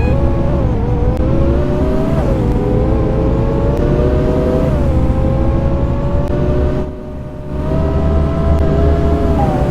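Scania K230UB city bus's five-cylinder diesel and automatic gearbox pulling away, heard on board: a whine that climbs in pitch and drops back with each upshift, a few seconds apart, over a heavy low engine drone. The sound eases off briefly about seven seconds in, then picks up again.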